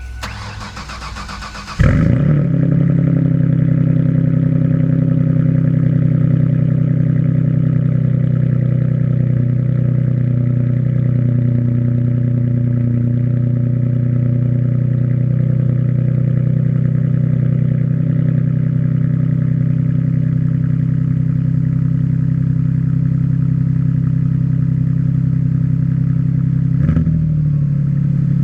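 A 1998 Mercury Sable GS's 3.0-litre V6, straight-piped from the second catalytic converter back with no mufflers, is cranked by the starter for about two seconds, then catches and idles loud and steady. There is a brief dip and rise in pitch near the end.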